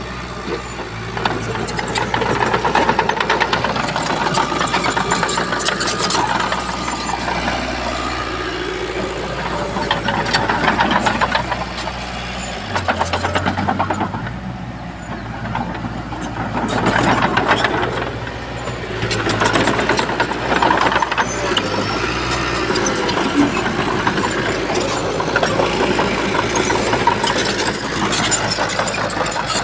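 Shantui bulldozer's diesel engine running under load, swelling and easing every few seconds as it pushes. The engine note drops briefly about halfway through and shifts again a little later, with a rattling clatter over it.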